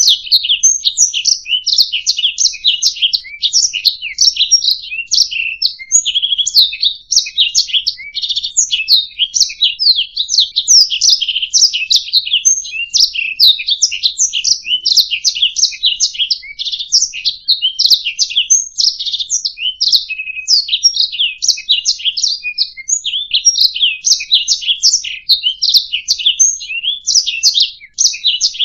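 Domestic canary singing a continuous fast, rolling song of rapid trills and chirps, high-pitched and without a break.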